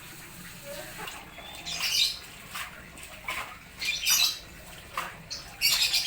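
Birds chirping and calling back and forth in short, bright bursts over a faint steady rush of water.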